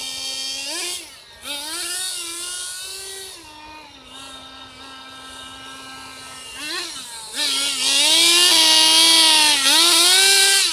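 Small nitro glow engine of a radio-controlled drift car revving up and down in short bursts, settling to a steady idle for a few seconds in the middle, then revving loudest near the end. It runs on a rich fuel mixture with an idle that sits a little high.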